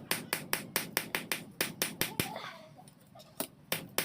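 Hammer blows on steel in quick, even succession, about five a second, stopping about two seconds in; after a short pause, a couple of separate blows follow near the end. This is the sound of hand-forging steel from an old bearing.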